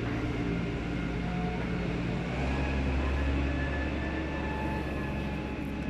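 A diesel engine running steadily with a low, even hum that grows heavier about two seconds in.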